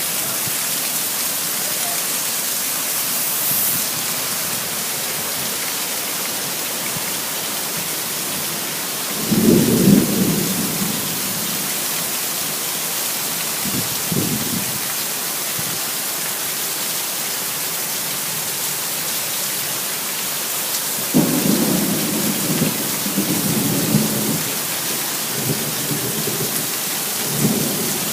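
Steady rain hiss with thunder rumbling: one rumble about nine seconds in, a short one around fourteen seconds, and a longer rolling stretch from about twenty-one seconds to near the end.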